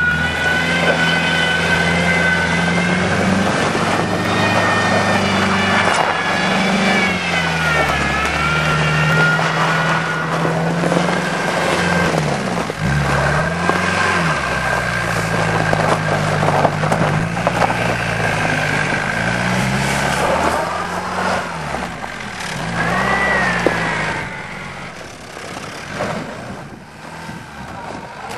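1993 Volkswagen Jetta Turbo Diesel's four-cylinder turbo-diesel engine revving up and easing off again and again as the car is driven hard in snow, heard from inside the cabin. The serpentine belt tensioner rattles along with it. The engine quietens over the last few seconds.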